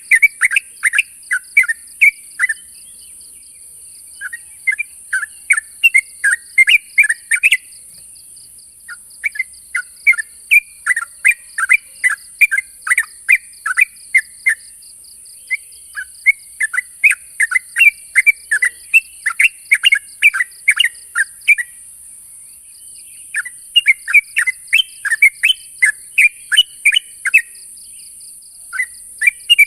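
Yellow-vented bulbul (trucuk) calling: a string of quick, bubbly chattering phrases, each a few seconds long with short pauses between them, the challenge call used to draw out a rival. Under it runs a steady high hiss with a fast pulsing buzz.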